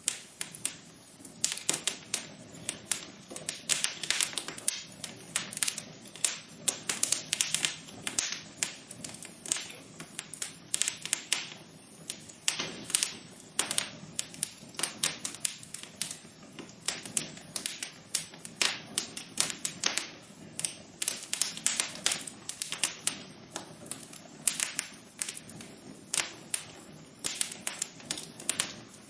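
Wood fire in a fireplace crackling, with frequent irregular pops and snaps over a faint steady hiss.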